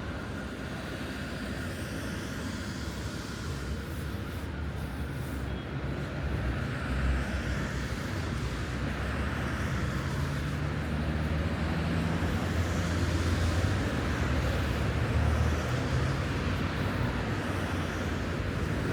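Road traffic on a city street: a steady rush of passing vehicles that grows louder about a third of the way in, with a deep engine drone strongest in the middle as a vehicle passes close.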